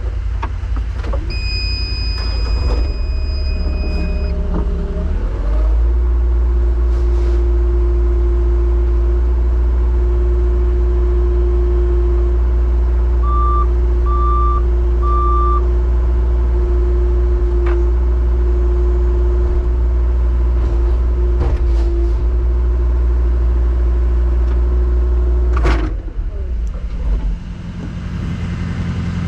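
Rollback tow truck's engine stepping up to a raised idle about five seconds in, with a steady hydraulic whine over the low engine note while the bed is worked. It runs evenly, with three short beeps partway through, then drops off abruptly a few seconds before the end.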